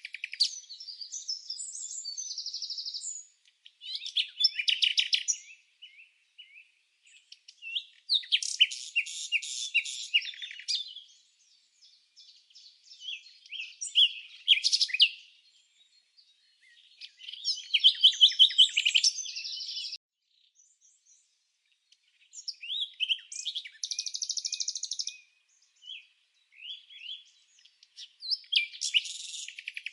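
Songbird song: bouts of high, rapid trills and chirps, each lasting two to three seconds, separated by short pauses, with no other background sound.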